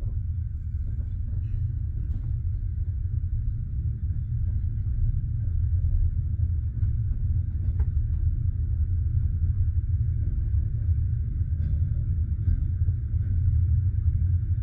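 Steady low rumble inside a passenger railway carriage, with a few faint scattered ticks and no regular wheel-joint clicking; it grows slightly louder about five seconds in.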